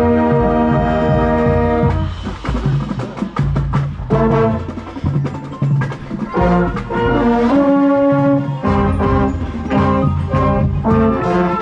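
High school marching band playing: brass holds a loud chord, then about two seconds in drums strike a run of sharp hits, followed by short accented brass chords over the percussion.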